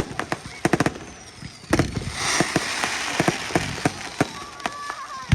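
Fireworks going off: a quick run of sharp bangs and crackles, then, about two seconds in, a loud crackling burst that lasts a couple of seconds, with scattered bangs after it.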